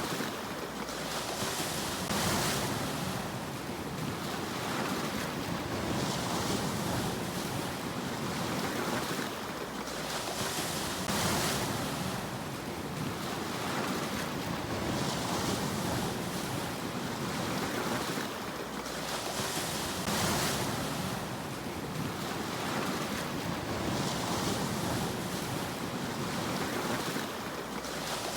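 Sea waves breaking over a steady wash of surf, with a fresh surge about every four to five seconds.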